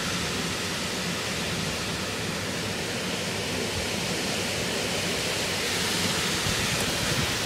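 Heavy thunderstorm rain pouring down in strong wind: a steady, even rushing hiss.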